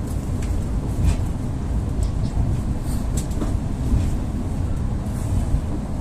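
Inside the car of an EP2D electric multiple unit running along the line: a steady low rumble of wheels and running gear, with a few scattered short clicks.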